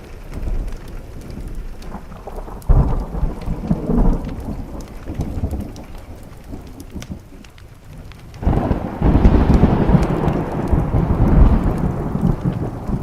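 Thunder over steady rain: a sudden clap about three seconds in that dies away, then a longer, louder rolling rumble from about eight and a half seconds on.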